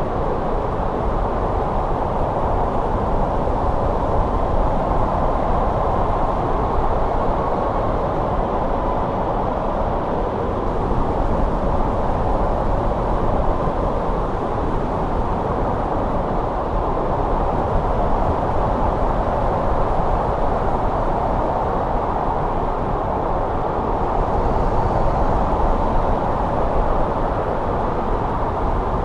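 Steady wind noise of a snowstorm, an even low rushing hiss without gusts or breaks.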